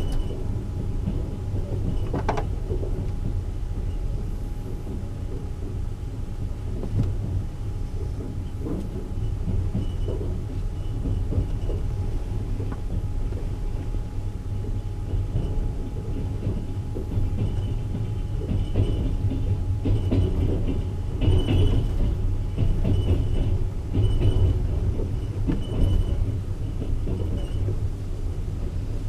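A moving express passenger train heard from inside a carriage: a steady low rumble of wheels on rails, with scattered knocks and rattles, louder for a few seconds about two-thirds of the way in.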